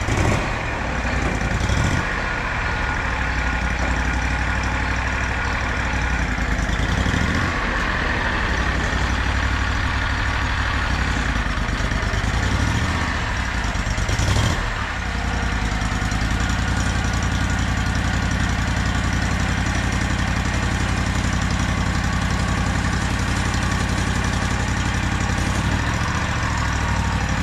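An engine idling steadily, with a brief knock about halfway through.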